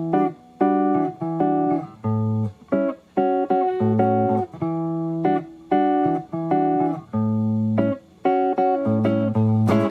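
Instrumental break of a song: guitar chords played in short choppy stabs, with brief gaps between them.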